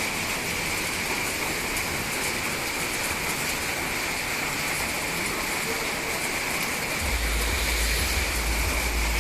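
Steady rain falling, an even hiss. About seven seconds in a low rumble comes in underneath it.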